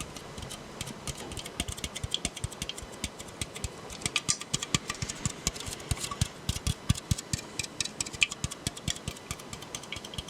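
Fast, irregular tapping on a soda can, many light taps a second, growing denser and louder about four seconds in.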